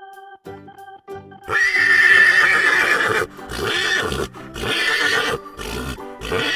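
Horse neighing: one long, loud whinny starting about one and a half seconds in, then three shorter sounds. Light keyboard music plays at the start.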